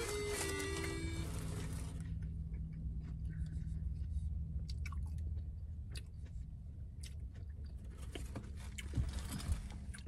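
A person chewing a mouthful of hamburger, with small wet mouth clicks and smacks and two sharper sounds near the end as the next bite is taken. Background music with plucked notes fades out in the first two seconds.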